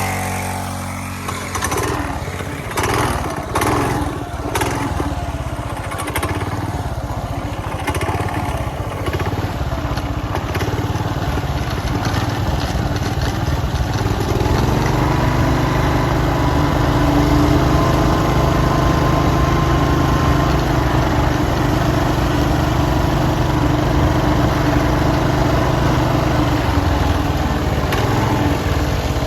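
Small 40cc two-stroke minibike engine running under way, with knocks and rattles over it in the first several seconds; about halfway through the engine note steadies and gets louder as it holds speed.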